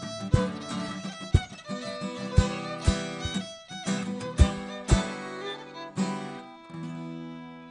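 Irish folk music on acoustic guitar and fiddle: steady strummed chords under a fiddle melody, closing about seven seconds in on a held final chord that rings and fades.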